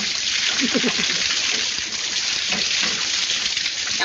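Water spraying and gushing steadily from broken plumbing: a constant, loud hiss.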